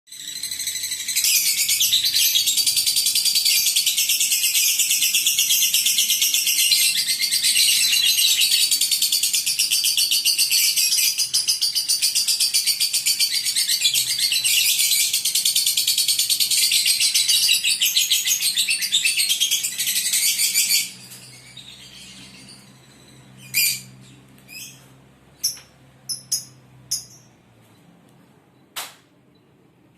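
Lovebird singing its ngekek: one long, unbroken, very rapid high-pitched chattering trill that runs for about twenty seconds and then stops abruptly, followed by a handful of short, sharp chirps.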